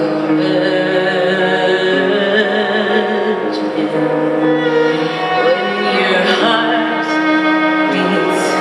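Live concert music: a singer holding long, wavering notes over sustained accompaniment.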